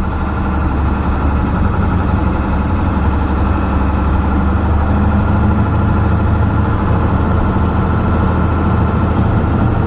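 Steady engine drone and road noise of a pickup truck driving at town speed, heard from inside the cab.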